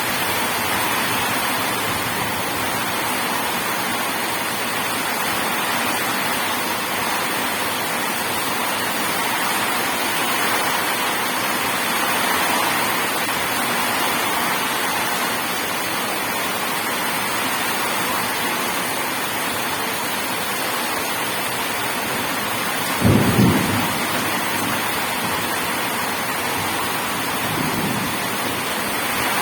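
Steady rain falling, with a short low clap of thunder about two thirds of the way through and a fainter rumble near the end.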